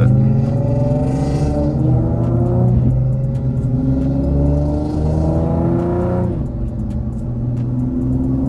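Infiniti G37's VQ37 V6 with a loud full-bolt-on exhaust under hard acceleration: revs climb, drop sharply at an upshift about three seconds in and again about six seconds in, then climb once more.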